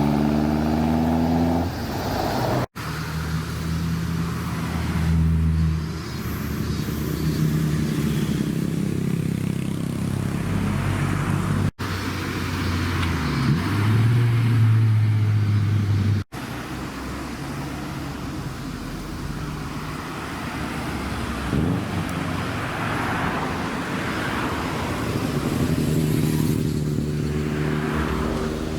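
Car engines running and accelerating past, in several short clips joined by abrupt cuts; the engine pitch rises at the start and again near the end as cars accelerate.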